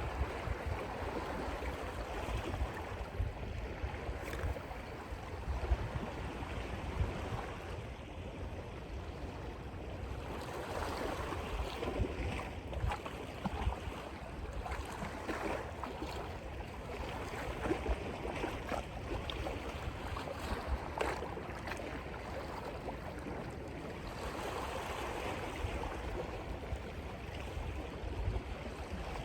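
Sea surf washing against rocks with wind rumbling on the microphone, steady throughout with small irregular splashes and knocks.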